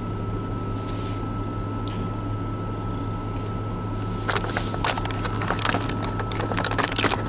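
Seasoning bottles and containers being shuffled in a cabinet, a run of clicks and plastic rattles starting about four seconds in, over a steady low mechanical hum in the truck cab.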